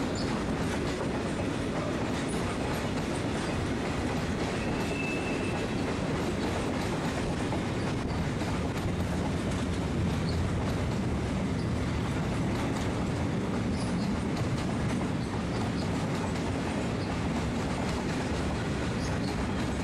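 Broad-gauge steel freight train's wagons rolling past at a steady speed, wheels clattering over the track. A brief high-pitched squeal sounds about five seconds in.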